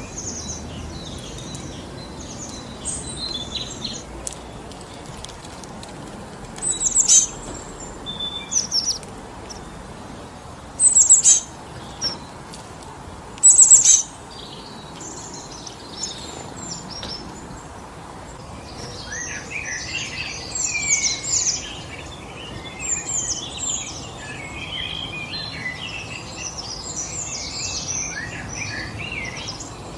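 Wind rushing steadily through forest trees, with songbirds calling over it: a few loud, sharp, falling calls around a quarter and a third of the way in, then many birds chirping together through the last third.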